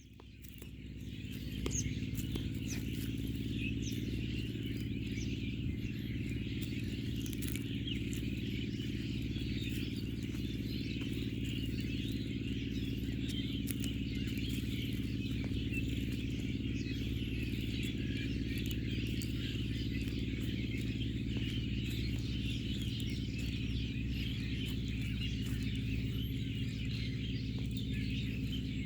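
Many birds chirping and calling together in a dense, unbroken chorus, over a steady low hum. The sound fades in over the first two seconds.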